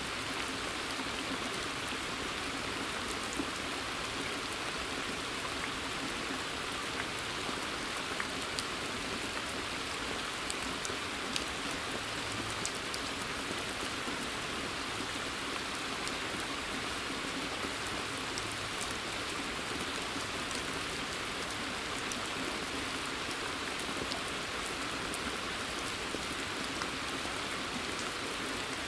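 Steady rain falling on a water surface: an even hiss with scattered sharper drips.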